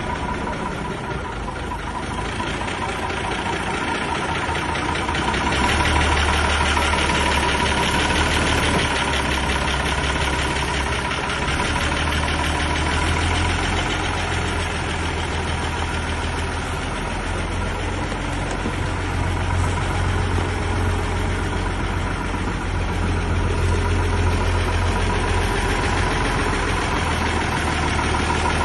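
Deutz 4 120 tractor's diesel engine running steadily, getting louder about six seconds in and holding there.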